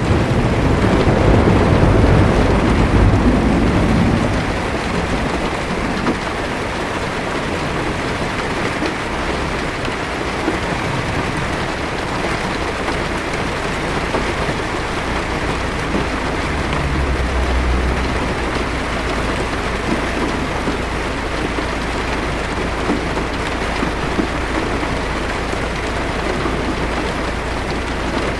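Heavy rain drumming steadily on a car's roof and windshield, heard from inside the car. Thunder rumbles low over the first few seconds, and a fainter rumble comes about seventeen seconds in.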